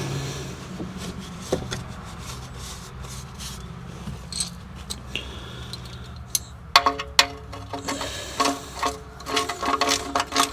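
Ratchet wrench clicking in irregular runs of sharp, ringing metal strokes, starting about two-thirds of the way in. Before that there are only faint scattered taps over a low steady hum.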